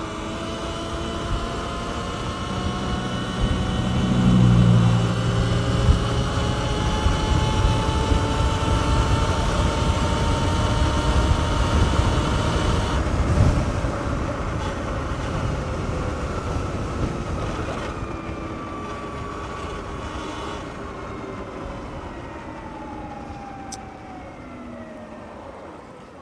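Sur-Ron X electric dirt bike's motor whine rising in pitch as the bike speeds up for about thirteen seconds, then falling slowly as it slows down. Wind and road rumble run underneath and are heaviest while it is at speed.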